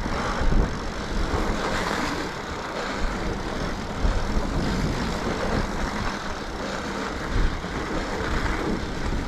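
Riding noise of a mountain bike on a groomed snow trail: tyres running over packed snow and wind on the microphone make a steady rushing noise, with irregular low bumps and jolts.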